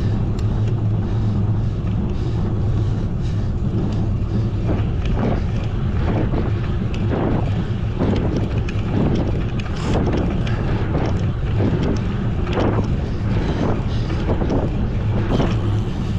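Wind buffeting the microphone of a camera on a moving road bicycle, over a steady low rumble.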